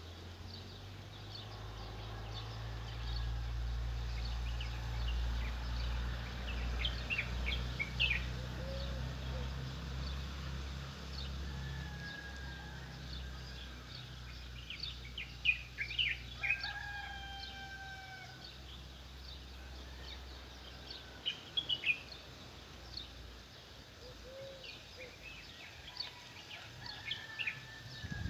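Small birds chirping and twittering, with a rooster crowing once in the distance about halfway through. A low steady rumble sits underneath for most of the time, then fades out.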